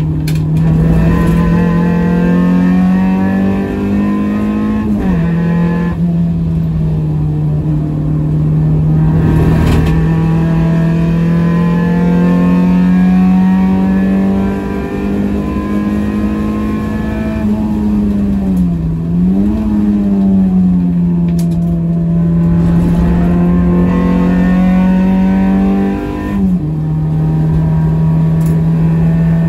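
Swapped Honda H-series four-cylinder engine of a CB7 Accord, heard from inside the cabin, running hard at high revs around a race track. The engine note holds steady, dips briefly and recovers about five seconds in, about two-thirds of the way through and again near the end, over steady road and tyre noise.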